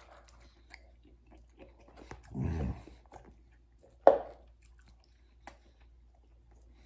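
A person chewing a mouthful of omelette, with soft mouth sounds and small clicks of a fork against a plastic takeout container. A brief low hum comes about two and a half seconds in, and a sharp knock of the fork in the container, the loudest sound, just after four seconds.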